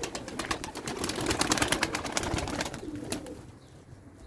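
Domestic pigeons flapping their wings in quick, dense claps as they take off and fly, with pigeon cooing underneath; the flapping fades near the end.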